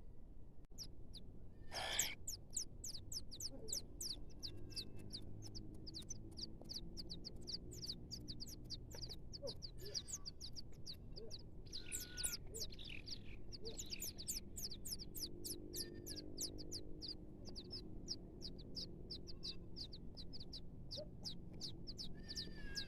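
Nestling birds cheeping: a rapid, steady run of short, high, falling calls, about four a second, with a louder call about two seconds in and another around twelve seconds.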